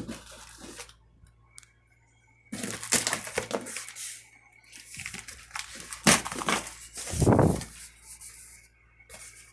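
Cardboard shipping box being handled and turned over: bursts of cardboard scraping and rustling, with a sharp knock about six seconds in and a heavier bump just after.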